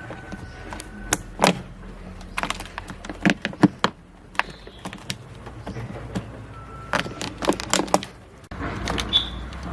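Irregular knocks and clicks of hand tools and parts being handled during work on a car. Near the end the background changes suddenly and a bird chirps once.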